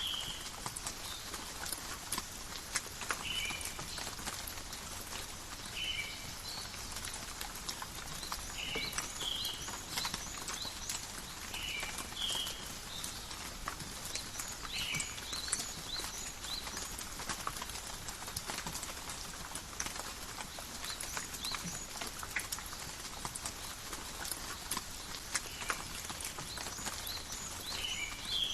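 Steady rain falling through forest, with many individual drops pattering. An animal gives a short chirping call about every three seconds, pausing for a stretch in the second half.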